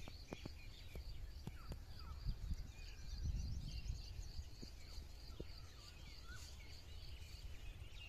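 Small birds chirping and twittering, with a quick repeated high note running throughout. Under the birdsong is a low rumble, loudest about three to four seconds in, with a few sharp clicks.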